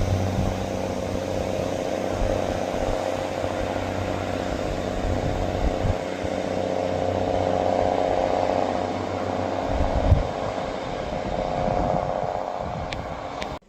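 Diesel train running steadily past, a low rumble under a droning engine note. The sound cuts off abruptly near the end.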